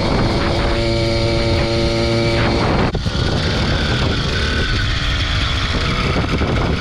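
80cc two-stroke motorized-bicycle engine running at a steady high pitch under way, with wind on the microphone; about three seconds in the steady note breaks off and the sound turns rougher and more wind-dominated.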